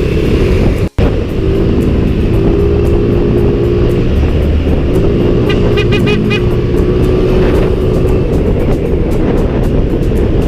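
Motorcycle riding in traffic: steady engine and wind noise, with background music over it. A brief dropout about a second in sounds like an edit cut.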